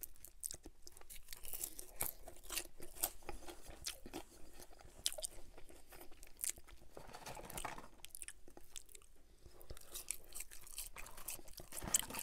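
Close-miked chewing of McDonald's fries dipped in sauce: soft crunching with many wet mouth clicks, a denser wet stretch about seven seconds in, and a brief louder knock near the end.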